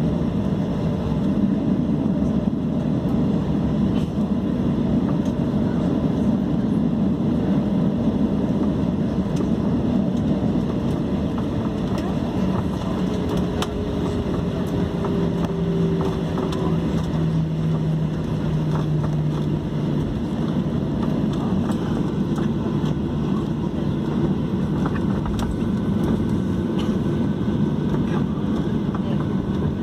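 Steady roar of a Boeing 737-800's CFM56 jet engines running, heard from inside the passenger cabin. A low hum within the roar sinks slightly in pitch midway through.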